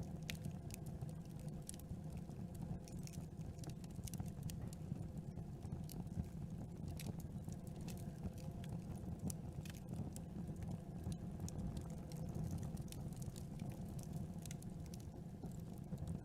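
Campfire burning: irregular sharp crackles and pops of wood over a steady low rumble of the flames.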